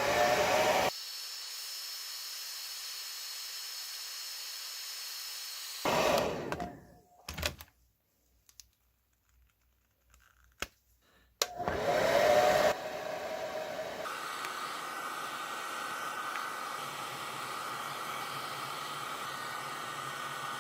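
Handheld hair dryer blowing in several stretches. Its motor spins up with a rising whine each time it comes on, with a few sharp clicks and a silent gap in the middle. It is heating the action figure's plastic to soften the joints so the parts can be pulled out.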